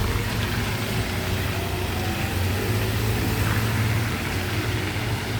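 Street traffic: vehicle engines running with a steady low hum under an even hiss.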